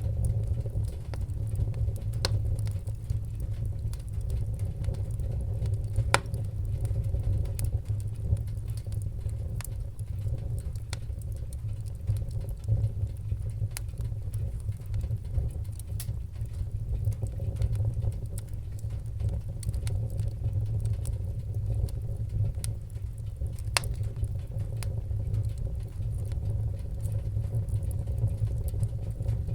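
Wood fire burning in a fireplace: a steady low rumble with scattered sharp crackles and pops, a few louder snaps standing out.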